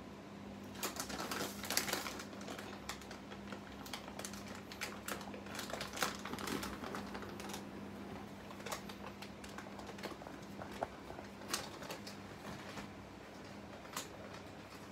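Irregular light clicks and taps, several a second at first and sparser later, over a faint steady hum.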